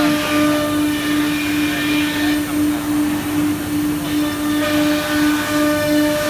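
CNC router spindle running, a steady whine over a constant rushing noise; its higher overtones fade for about two seconds midway, then return.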